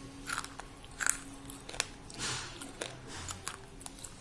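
A person biting and chewing thick white slate pencils: sharp, brittle crunches about once a second, with a longer gritty crunch around the middle.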